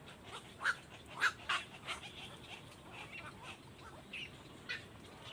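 Small birds chirping: a run of short, high, sharp chirps, several in quick succession about a second in and a single one near the end.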